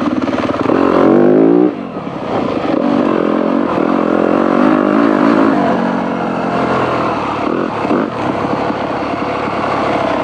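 Dirt bike engine under a rider's throttle on an off-road trail. The revs climb for about a second, then drop off sharply as the throttle is shut, and keep rising and falling with the throttle from then on.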